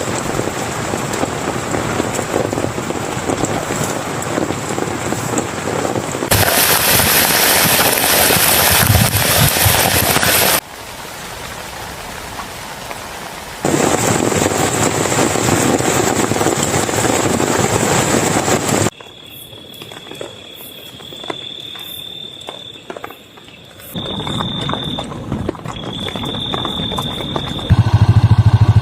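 Heavy rain falling, heard as a string of abruptly cut stretches that switch between louder and softer downpour. Near the end a loud, steady low drone starts suddenly.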